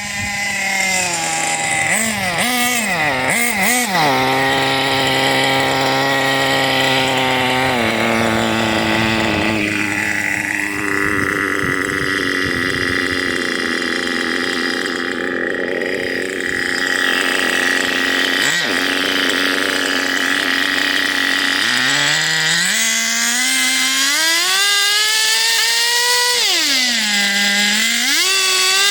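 OS CVR .18 glow engine of a nitro RC car running at high revs, its pitch going up and down with the throttle and holding steady for stretches. About three quarters of the way through the pitch climbs steadily, then dips briefly and rises again near the end.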